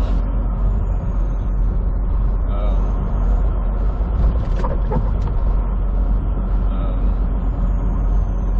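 Steady engine and road rumble inside a moving semi truck's cab, a low drone with road noise over it.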